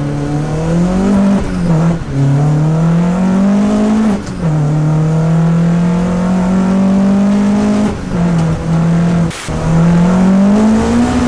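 Peugeot 205 petrol engine accelerating hard through the gears. The pitch climbs steadily and drops back at each upshift, three shifts in all, then climbs again near the end.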